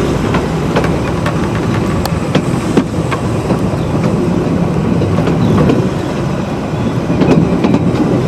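Narrow-gauge 2 ft 3 in train running along the track, heard on board: a steady rumble of wheels on rail with scattered clicks.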